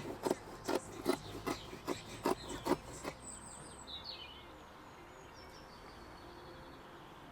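A regular run of short, sharp sounds, about two and a half a second, stopping about three seconds in. After it, faint bird chirps over a quiet outdoor background.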